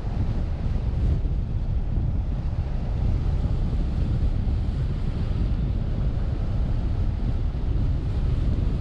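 Steady low rumble of a vehicle driving along a highway, with wind buffeting the microphone.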